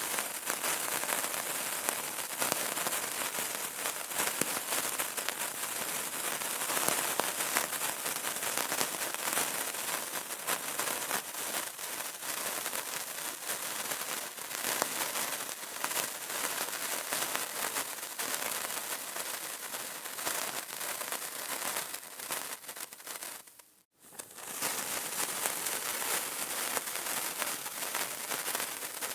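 Burning candle crackling: a dense, steady run of small pops and ticks over a soft hiss, dropping out for a moment near the end.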